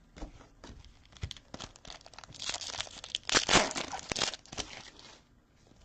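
Foil trading-card pack wrapper crinkling and tearing, loudest for a couple of seconds in the middle, with light clicks of cards being handled.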